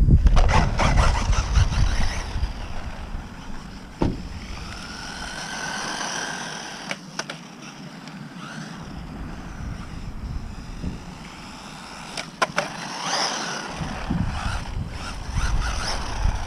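Electric RC short course truck driving: its motor whines, rising and falling as it speeds up and slows, with a sharp knock of the truck landing about four seconds in and a clatter of knocks near the end.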